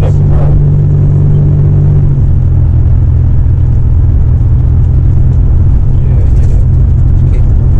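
Buick Grand National's engine and road drone heard from inside the cabin while driving, a steady low note that steps down about two seconds in.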